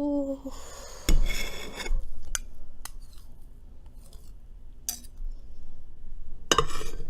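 Cutlery clinking and scraping against a baking dish while a brownie piece is pried out. There are a few sharp clinks with brief ringing; the loudest clatters come about a second in and near the end.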